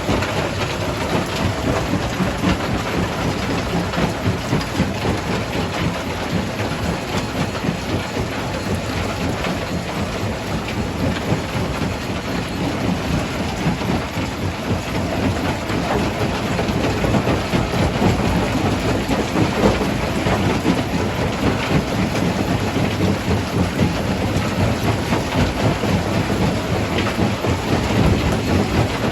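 Jaw crusher running under load: a continuous heavy rumble with a dense clatter of rock being crushed, a little louder in the second half.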